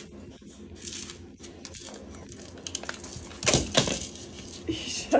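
Several sharp clicks and clatters of small hard objects knocking together, the loudest cluster about three and a half seconds in and another sharp knock at the very end.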